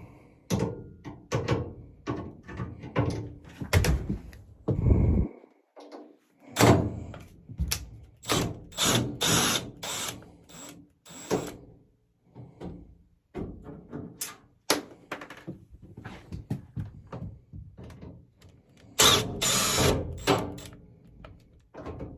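Screws being taken out of a dryer's sheet-metal cabinet: a string of irregular knocks, clicks and scrapes from the tool and panel, with a longer, louder stretch near the end.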